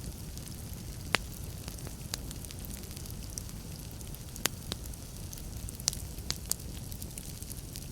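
Wood fire in a fireplace crackling, with irregular sharp pops and snaps over a steady low hiss of the flames.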